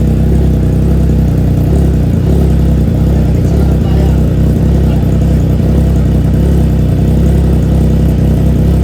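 Triumph Trident 660's three-cylinder engine idling steadily through an aftermarket full exhaust system, a low, deep rumble.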